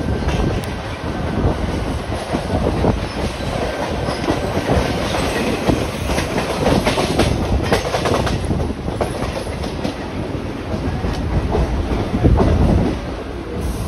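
Mumbai suburban electric local train running along the track, heard from its open doorway: steady running noise with the wheels clattering over the rails, and a louder rumble about twelve seconds in.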